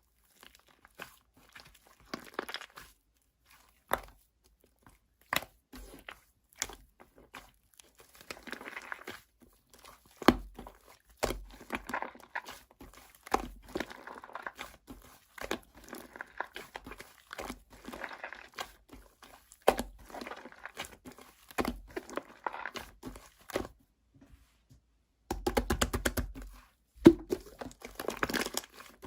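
Crinkling and rustling handling noises with scattered sharp clicks and knocks, growing denser near the end.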